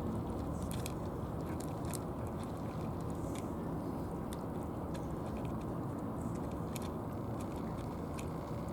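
A cat crunching food, irregular crisp clicks a few times a second, over a steady low background rumble.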